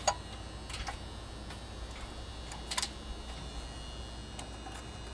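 A few sharp clicks and ticks of wires, spade connectors and tools being handled during wiring work, the loudest just after the start and a small cluster near the middle, over a steady low hum.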